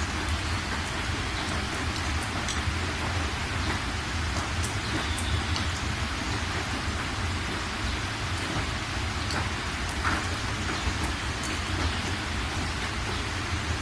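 Steady rain falling on surfaces, with scattered individual drops ticking out over the hiss and a steady low rumble underneath.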